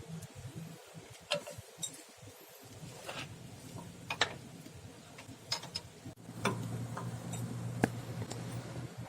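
Scattered metallic clicks and clinks of hand tools working on a steering gearbox, with a steady low hum that starts a little past the middle.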